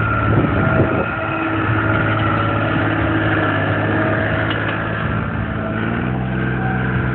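John Deere 240 skid steer's diesel engine running steadily, with a few knocks in the first second and a change in engine pitch near six seconds.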